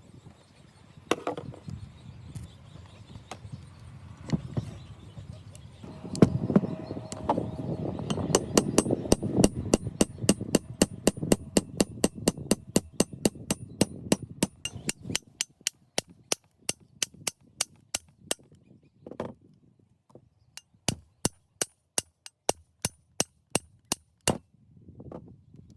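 Repeated sharp taps of hand-tool work: a fast, even run of about four taps a second that stops, then starts again at about three a second. A low rumbling noise lies under the first half.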